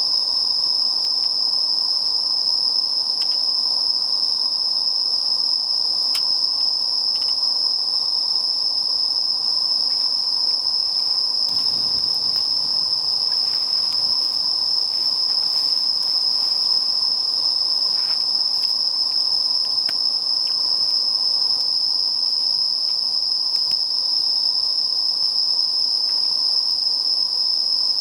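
Insects singing in a steady, unbroken high-pitched chorus, with a few faint clicks.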